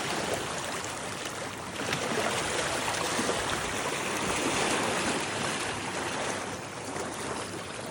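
Sea waves washing in, a steady rush of water that swells twice and eases off near the end.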